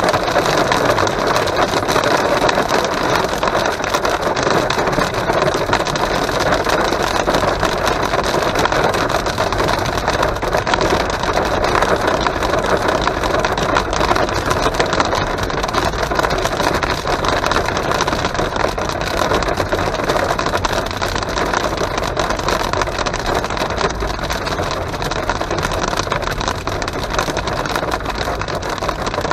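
Heavy downpour pelting the windscreen and roof of a moving car, a loud, steady, dense patter heard inside the cabin over the car's road noise.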